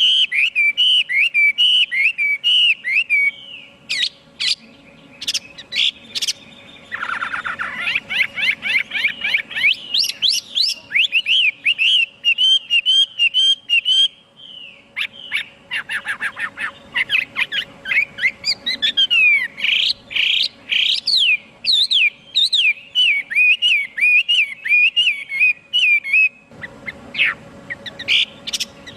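Chinese hwamei singing a long, varied song of rapid repeated whistled notes and rising and falling slurs, with brief pauses about 4, 14 and 26 seconds in. A faint steady hum runs underneath.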